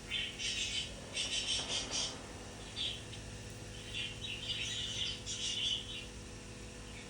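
Budgie chirping and chattering in quick bursts of high chirps, about six bursts across several seconds.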